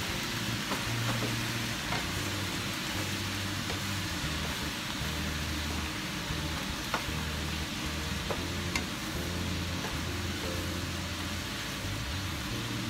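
Yakisoba noodles and vegetables sizzling in a frying pan on a gas burner as they are mixed, with a few light clicks and taps.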